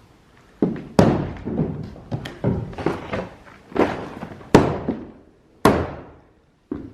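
Hammer blows on a wooden 2x8 framing board, about a dozen sharp strikes at uneven spacing, each ringing briefly. The loudest come about a second in and around four and a half and five and a half seconds in.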